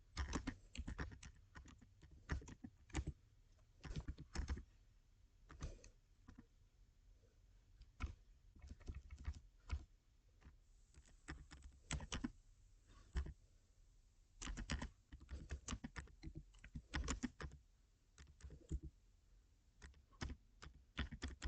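Typing a chat message: irregular runs of quick key clicks broken by short pauses.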